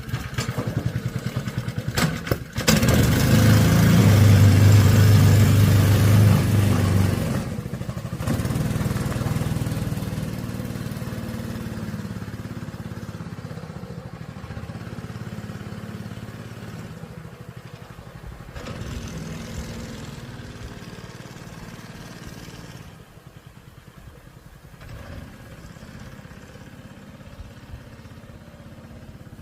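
Honda GX200 single-cylinder four-stroke engine starting up and running. It runs fast and loud for the first few seconds, then settles to a steadier, quieter idle.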